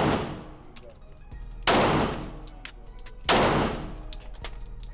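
Two gunshots about a second and a half apart at a shooting range, each a sharp crack followed by a long ringing decay. Faint clicks sound between them.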